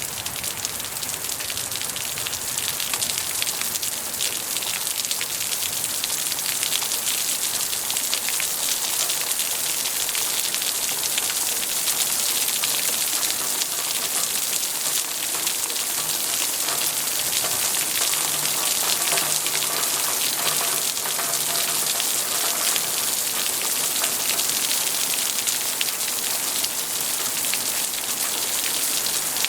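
Steady rain falling, an even hiss of many drops that grows slightly louder over the first few seconds.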